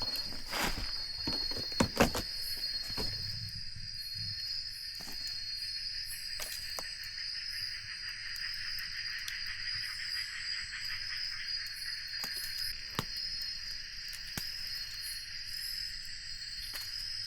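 Steady high-pitched chorus of forest insects, with a few sharp knocks in the first couple of seconds.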